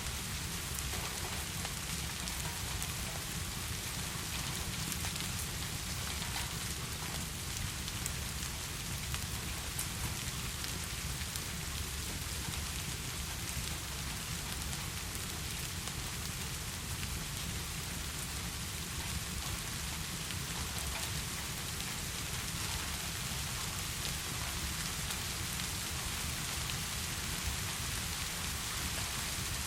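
Heavy rain falling steadily, an even dense hiss with a low rumble underneath.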